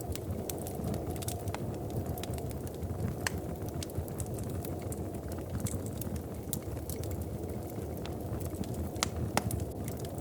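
Wood fire burning in a fireplace: a steady low rumble of the flames with frequent sharp crackles and pops scattered through it, a few louder than the rest.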